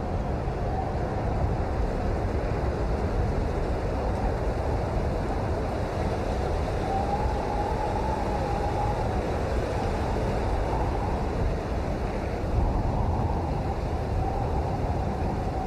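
Steady rain noise played as white noise: an even, unbroken wash with most of its weight low, like a deep rumble, and a faint wavering tone drifting through it.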